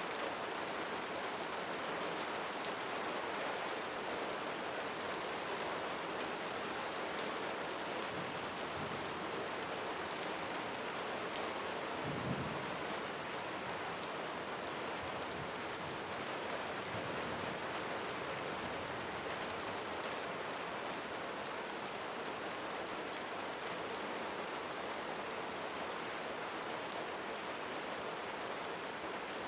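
Steady rain falling on leaves, with a brief low thump about twelve seconds in.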